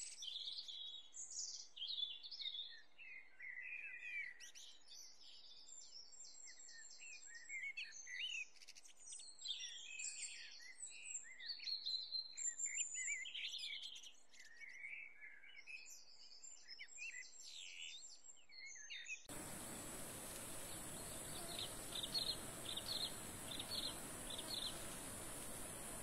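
Many small birds chirping and trilling over a quiet natural background. About three quarters of the way through, the sound cuts abruptly to a steady outdoor hiss with a high, even whine, and a short run of chirps rises above it.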